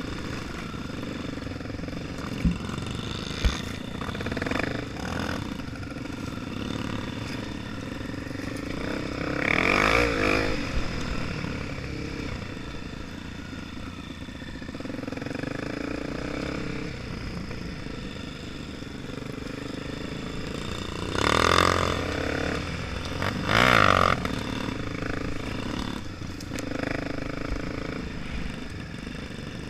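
Honda Tornado 250 single-cylinder four-stroke motorcycle engine running steadily, revved up three times: once about a third of the way in and twice in quick succession later on.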